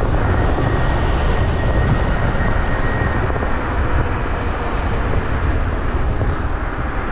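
Wind rushing over the microphone and tyre rumble from a Teewing Mars XTR electric scooter riding at speed, a steady noise heavy in the low end. A faint high steady whine fades out about three seconds in.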